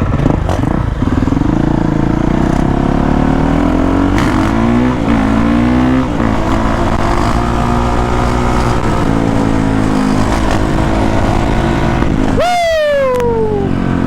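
Honda CRF450R's single-cylinder four-stroke engine under load, its pitch rising and falling repeatedly as the throttle is worked. About twelve and a half seconds in, another dirt bike passes very close, its engine note jumping up and then falling steeply as it goes by.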